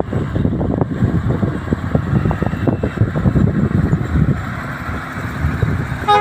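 Fully loaded Hino H07D diesel truck running on the road: a loud, rough, steady rumble of engine and road noise.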